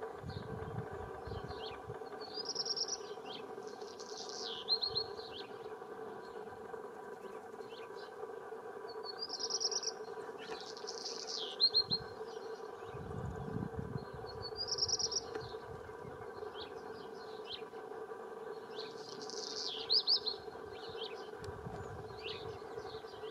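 A songbird singing the same short, high-pitched phrase about every five seconds, each phrase a held note, a falling sweep and a quick trill, over a steady low hum. Brief low rumbles come in three times, near the start, about halfway and near the end.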